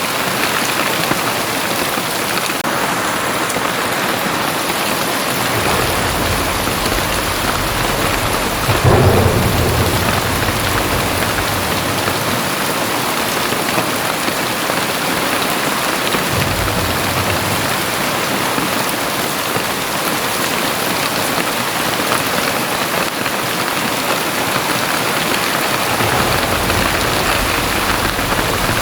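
Very heavy rain pouring steadily, with low rumbles of thunder coming and going, the loudest about nine seconds in.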